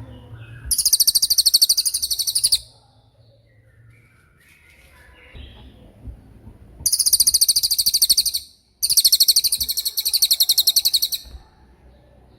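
Cililin songbird singing 'tembakan', its high, very rapid trilled bursts. There are three trills of about two seconds each: one near the start, then two close together in the second half.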